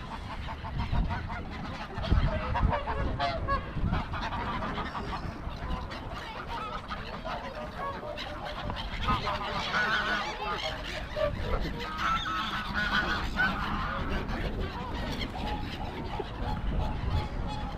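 A flock of geese honking, with many overlapping calls that are busiest about ten to thirteen seconds in. Wind rumbles on the microphone underneath.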